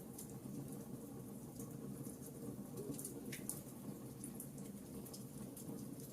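Wood fire crackling in a fireplace: a steady low rush of burning logs with many scattered sharp pops and snaps.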